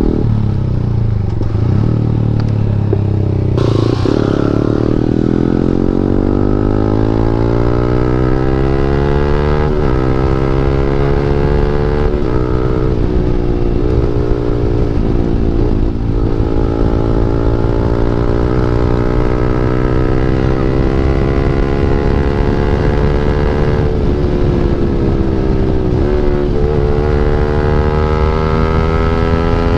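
KTM Duke 390's single-cylinder engine through an Akrapovic exhaust with the dB killer removed, running loud under way. The note climbs slowly for several seconds, then dips briefly a few times and builds again.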